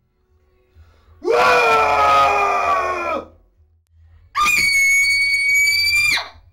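A person screaming twice. The first is a long scream of about two seconds that falls slightly in pitch. After a short pause comes a higher scream, held steady for nearly two seconds, that cuts off suddenly.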